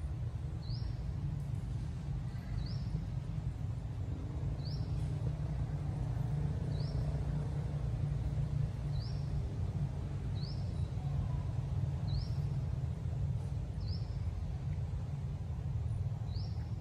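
Steady low outdoor rumble with a short, high, rising chirp repeating about every one and a half to two seconds, a small bird calling over and over.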